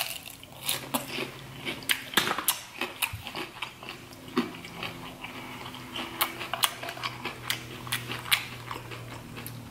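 Close-miked chewing of a mouthful of Cajun-butter fried shrimp: irregular crisp clicks and wet smacks, several to a second, with no words.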